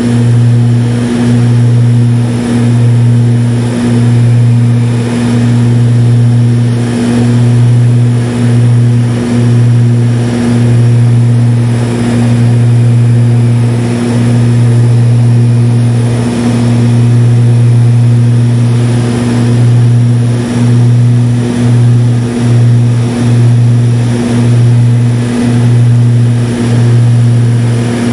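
Propeller aircraft in flight, its engine noise a steady deep drone that swells and dips about once a second.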